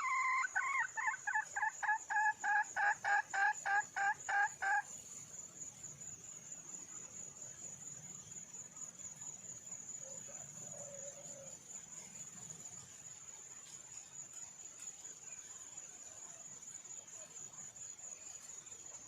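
Red junglefowl hen calling: a rapid run of short, repeated notes, about three a second, that stops about five seconds in. An insect keeps up a steady, high-pitched trill throughout.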